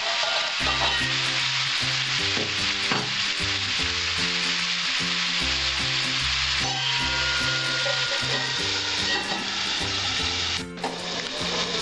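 Mixed vegetables frying in oil in an aluminium kadai, a steady sizzle. About ten and a half seconds in, a metal lid clanks onto the pan.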